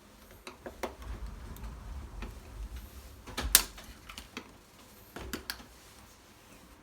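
A few scattered clicks and knocks, the loudest a sharp knock about halfway through, over a low rumble in the first half.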